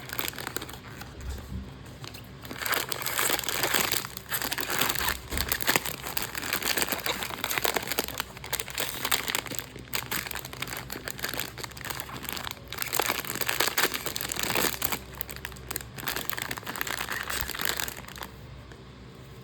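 Crinkling and rustling of a Pop Mart blind box's packaging being handled and opened: dense, irregular crackles that die down near the end.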